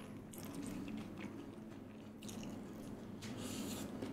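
A person chewing and biting food close to the microphone, with a few louder bursts of mouth noise, the longest near the end.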